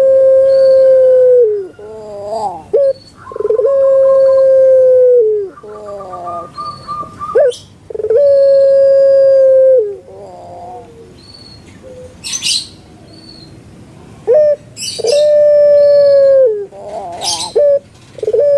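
Puter pelung dove (domestic ringneck dove) cooing: four long, steady, drawn-out coos of about a second and a half each, with shorter wavering notes between them. A few sharp high chirps come in between the coos.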